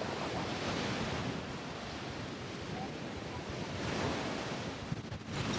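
Wind buffeting the microphone over a steady rush of surf, dropping away briefly about five seconds in.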